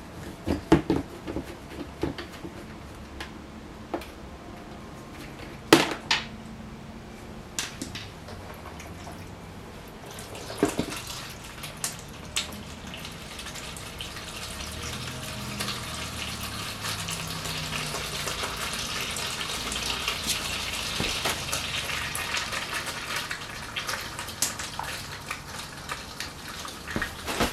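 Engine oil draining into a catch bucket: a steady splashing pour that sets in about ten seconds in and grows stronger. Before it come a few sharp clanks and knocks.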